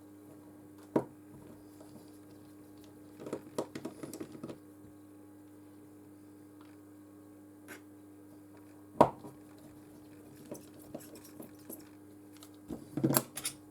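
Scattered light clicks and clinks of small metal repair tools against a phone's frame and the work surface while the phone's screws are being taken out. A sharper single click comes about nine seconds in, and there are short clusters of taps around four seconds and near the end.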